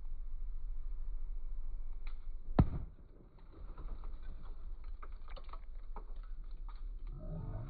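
Bonfire crackling: a steady low rumble with one loud pop about two and a half seconds in, then a run of sharp, scattered crackles. Music starts near the end.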